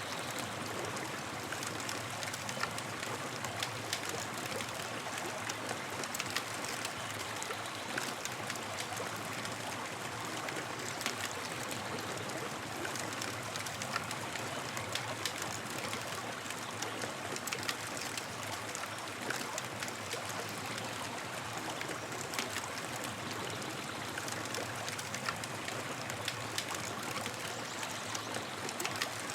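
Campfire burning: a steady hiss of flames with irregular sharp crackles and pops of burning wood.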